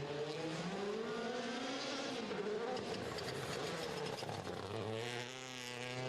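A rally car's engine is revving hard on a stage, its pitch rising and falling as the car accelerates and brakes. The pitch drops low about five seconds in, then climbs again.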